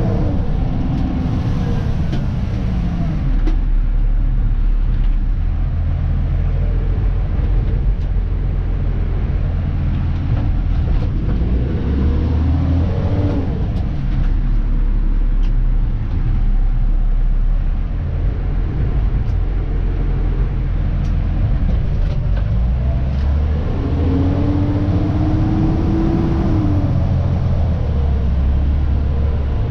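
Dennis Elite 2 refuse truck's diesel engine running on the move, a steady low rumble heard from inside the cab. Near the end, a tone rises in pitch over a couple of seconds and then falls away.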